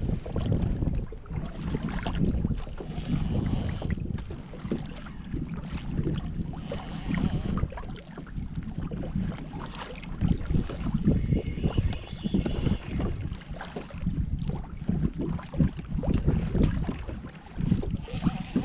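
Wind buffeting the microphone in uneven gusts, with water slapping against a fishing kayak's hull.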